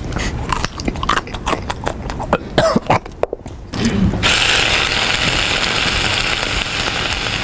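Loud crunching and chewing of a raw carrot bitten with the mouth open. About four seconds in, this gives way to the steady whir of a small electric power tool running without a break.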